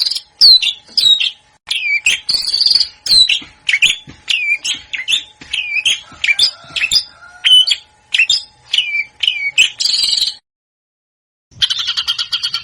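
Songbird song from a bird-training recording: a fast series of sharp whistled notes, each sliding down in pitch, repeated one to two times a second. After about a second of silence near the end, a different bird's rapid, buzzy trill begins.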